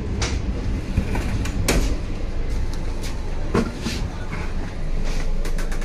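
Indian Railways Tejas Rajdhani Express coach running, heard from inside the AC sleeper coach: a steady low rumble with a few sharp knocks and clatters, one shortly after the start, one near two seconds and two close together a little after three and a half seconds.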